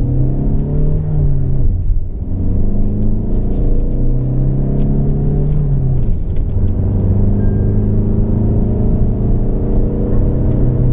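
Tata Altroz's 1.5-litre four-cylinder turbo-diesel engine pulling hard under full-throttle acceleration from a standstill. The revs climb, fall back at a gear change about two seconds in, climb again, and fall back at a second gear change about six seconds in before rising once more.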